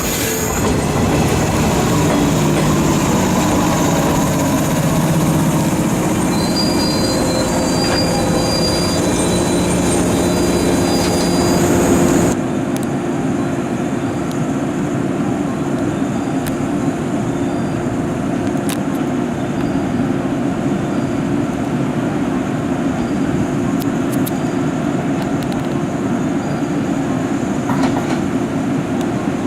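Electric train running along the track at a station, with a thin wheel squeal in the middle of the first part. About twelve seconds in, the sound cuts abruptly to a quieter, steady train rumble with faint regular ticks.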